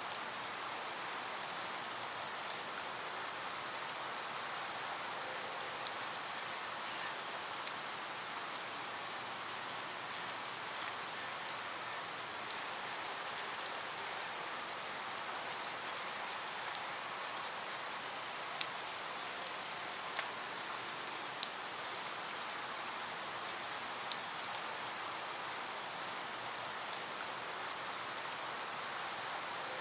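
Steady rain falling, with scattered sharp drops tapping through the even hiss.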